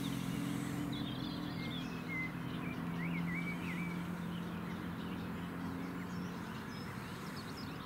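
Small birds chirping and singing in short, quick phrases, over a steady low hum.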